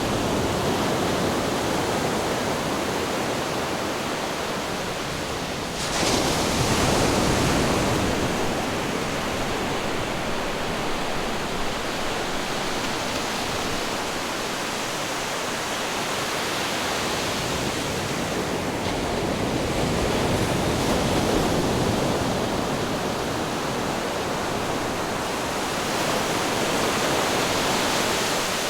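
Ocean surf: a continuous rush of waves washing in, rising and falling in slow swells, with a wave breaking sharply about six seconds in.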